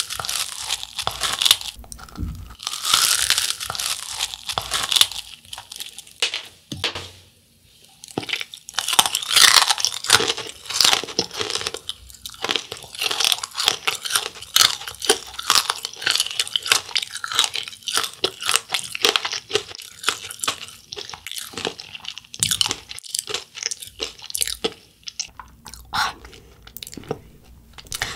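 Biting and chewing a corn dog coated in crushed dry ramen snack: dense, crackling crunches of the fried noodle crust, with a short pause about seven seconds in.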